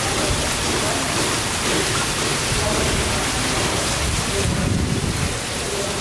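Heavy rain pouring onto wet paving and puddles: a loud, steady hiss of rain with a heavy low rumble beneath it.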